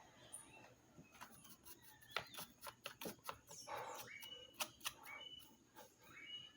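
Scattered light clicks and taps of plastic vacuum parts being handled, with a few short, faint high chirps among them.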